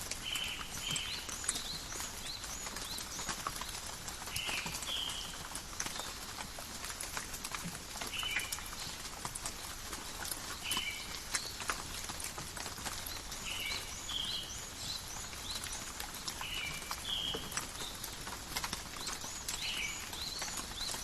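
Steady forest rain with close drops ticking. An animal repeats a short high call, often doubled, about every three seconds.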